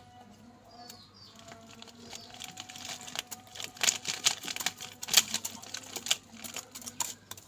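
Rooster pecking at crisp papad: a run of quick, irregular taps and crackles that grows denser and louder after about two and a half seconds.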